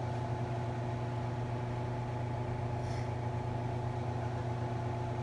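Steady low mechanical hum with a few faint steady tones above it, unchanging throughout, and a faint tick about three seconds in.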